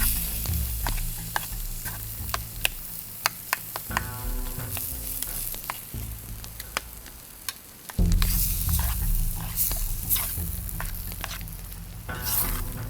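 Food sizzling and frying in a pan, with many sharp crackles and pops and the sound of being stirred.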